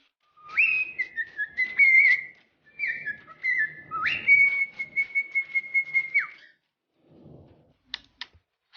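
Whistling: a few short phrases that glide up and step down, then one long held note that drops away sharply a little after 6 s.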